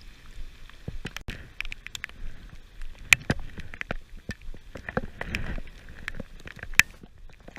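Heavy rain falling, with many sharp, irregular taps of single drops striking close by.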